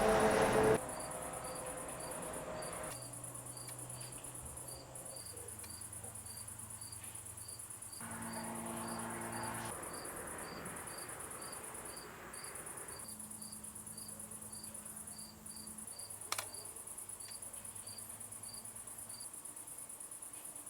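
Cricket chirping steadily in short, evenly spaced chirps, about two a second, over a steady high insect hiss. A single sharp click about two-thirds of the way through.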